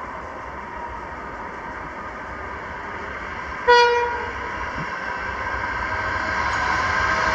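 Diesel-hauled freight train approaching: a single short toot of the locomotive's horn a little past halfway, the loudest sound, then the engines and the running of the train growing steadily louder as it draws near.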